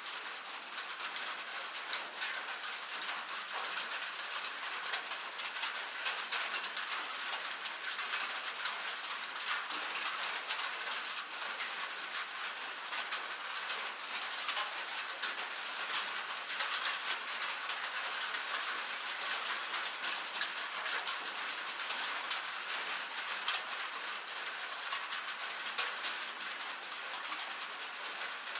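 Steady rain on a metal roof: a dense, even patter of many small drop ticks with no low rumble.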